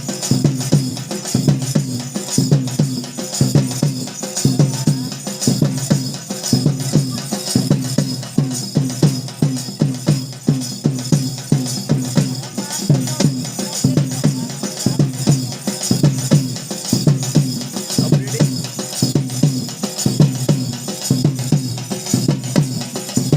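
Drums beaten in a fast, steady, repeating rhythm, the live percussion accompanying a tribal dance.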